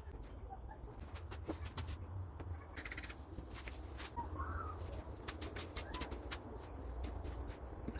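Outdoor background with a steady high insect drone and low rumble, a short bird call about four seconds in, and scattered light clicks and taps.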